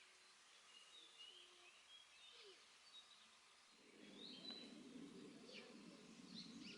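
Faint small-bird chirps and short whistled calls. About four seconds in, a low, soft murmur joins under them.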